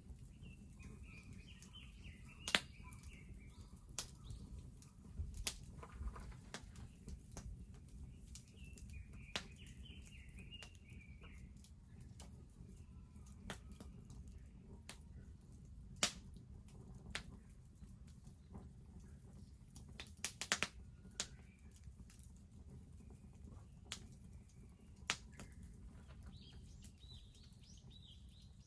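Wood fire crackling, with scattered sharp pops, the loudest about two and a half seconds in and a quick cluster about twenty seconds in. Birds chirp three times in the background.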